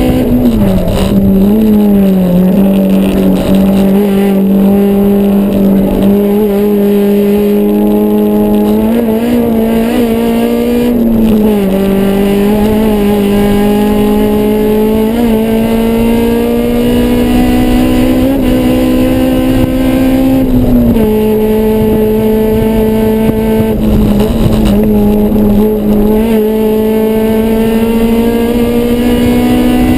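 Honda S2000 race car's four-cylinder engine held at high revs on track, with a loose muffler. The engine's pitch drops sharply about a second in and again about two-thirds of the way through, then climbs slowly back up each time.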